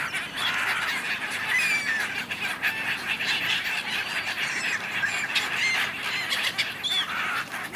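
A large flock of gulls calling over one another: a dense, unbroken din of squawks and short cries.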